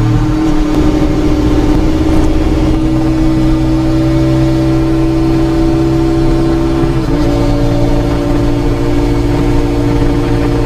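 Honda VTR250's V-twin running through a WR'S full exhaust system with a carbon silencer, under way at a steady pace. The engine note rises slowly for several seconds, dips abruptly about seven seconds in, then holds steady.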